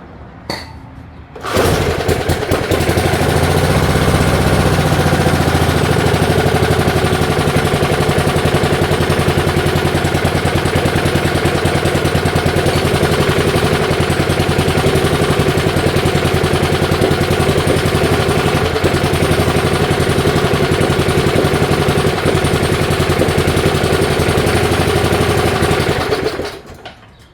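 Small engine of a 1978 Allis-Chalmers 19-inch push mower starting about a second and a half in, running at a steady speed, then stopping near the end. It is not picking up when given gas, which the mechanic puts down to a bad carburetor diaphragm.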